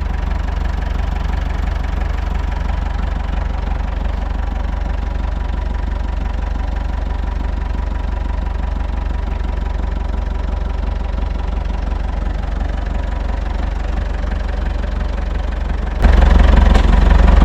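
Big tractor engine running steadily with a low rumble, its sound getting suddenly much louder near the end.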